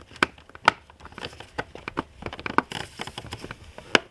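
Irregular sharp plastic clicks and taps from hands working at a car's interior fuse panel and its cover, with the loudest click near the end.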